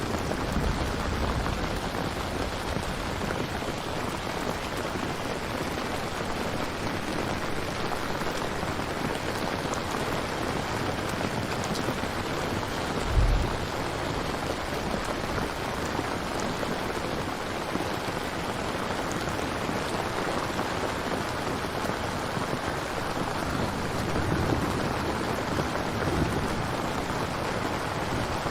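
Steady rain falling, an even hiss of drops throughout, with a brief low thump about halfway through.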